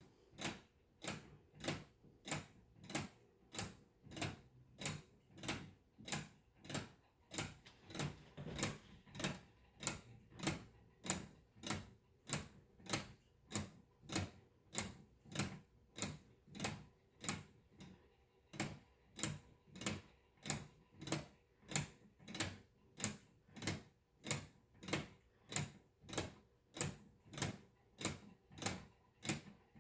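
A weight-driven, 3D-printed plastic Swiss lever escapement ticking: sharp clicks in a steady, even rhythm as the escape wheel advances against the pallets.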